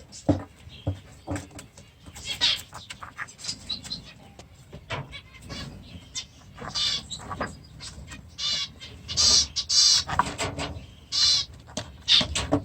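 A flock of budgerigars chattering and squawking: short, harsh calls in quick succession, growing louder and busier from about eight seconds in.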